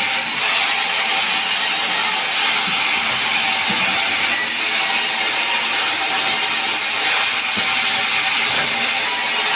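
Sawmill saw cutting pine timber: a loud, steady, even noise that holds at one level without a break.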